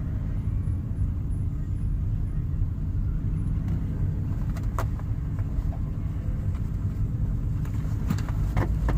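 Steady low rumble of a car's engine and running gear heard from inside its cabin, with a few faint clicks about five seconds in and near the end.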